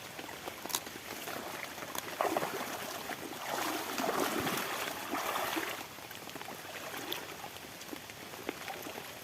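Steady wash of rain and running water, swelling for a few seconds in the middle, with a few small knocks.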